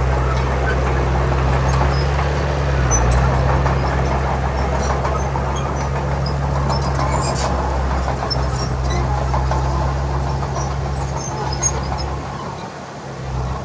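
Heavy diesel engine of earthmoving machinery running steadily with a low drone, which dips briefly near the end before picking up again.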